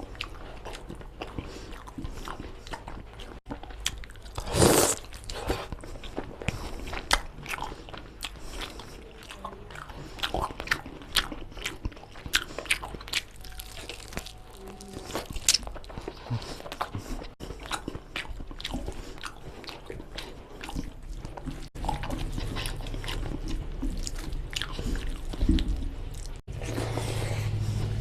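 Close-miked eating of mutton bone-marrow curry with rice: steady chewing and biting with many wet mouth clicks and crunches, and one louder burst about five seconds in. A low steady hum comes up near the end.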